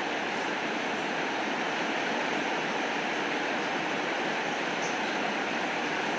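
Steady rainfall, an even hiss with a few faint high ticks.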